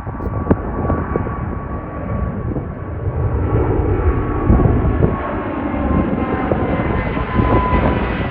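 Twin GE90 turbofan engines of a Boeing 777-200LRF freighter at takeoff power, a loud ragged rumble with a thin steady whine on top. The whine slowly falls in pitch while the sound grows louder and brighter.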